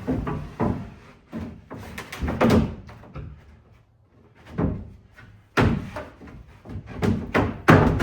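A bed-platform deck panel being slid and worked into place in a pickup truck bed, giving a series of irregular thunks and scrapes against the bed, with the loudest knocks near the end.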